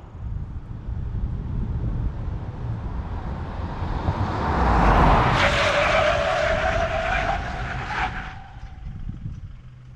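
2022 Isuzu D-Max X-Terrain's 3.0-litre 4JJ turbo-diesel four-cylinder driving under load, with a low rumble and a rush of noise that peaks about halfway through. A steady high tone comes in at that point, rises slightly, and cuts off near the end.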